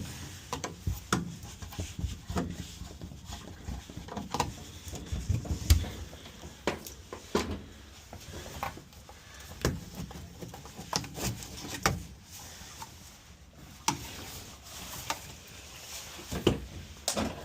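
Irregular knocks, clicks and scraping, handling noise of work in progress, with a sharp knock every second or two.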